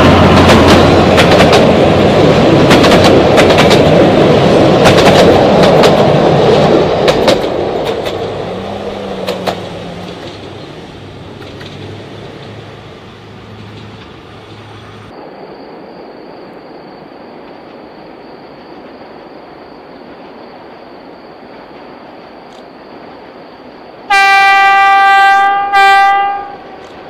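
Narrow-gauge passenger coaches rolling past with wheels clicking over the rail joints, fading as the train moves away. Then, near the end, a distant diesel locomotive sounds its horn: one long blast and one short blast.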